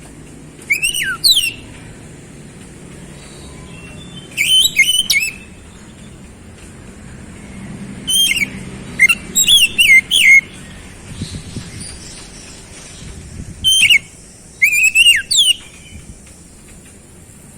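Oriental magpie-robin (kacer) singing in short bursts of quick, sweeping whistled notes, about six phrases a few seconds apart, over a faint low background hum.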